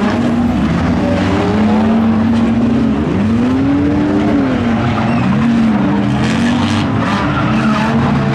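Several race car engines revving up and down as the cars accelerate and back off around the track, their pitch rising and falling in swoops over steady tyre and engine noise.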